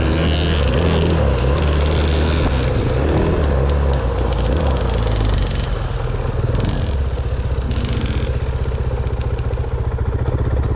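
Dirt bike engine running loud, its revs rising and falling for the first five seconds or so, then settling to a steady, evenly pulsing low note, with two brief hisses about seven and eight seconds in.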